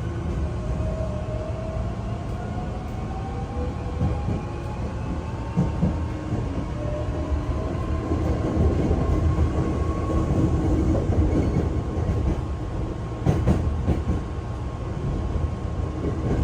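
Hankyu electric train pulling away and gathering speed, heard from inside the carriage. The motors whine with a slowly rising pitch over a steady low rumble of wheels on rail. A few sharp clicks from rail joints come about 13 seconds in.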